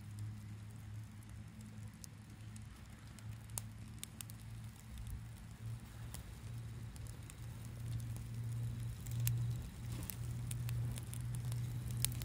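Wood bonfire burning, with irregular sharp crackles and pops over a low steady hum.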